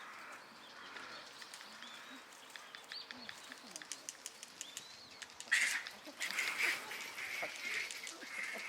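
Japanese macaques calling: loud, harsh calls break out about halfway through and keep going, over a scatter of small clicks.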